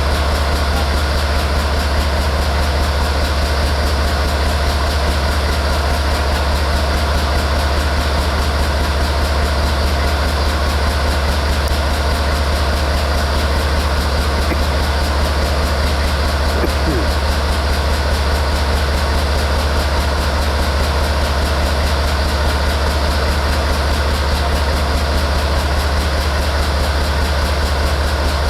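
Diesel locomotive engine idling with a steady low rumble that does not change.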